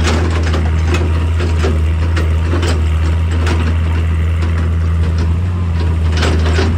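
Hydraulic excavator's diesel engine running steadily with a deep hum, with irregular knocks and scraping clatter of rock and metal over it.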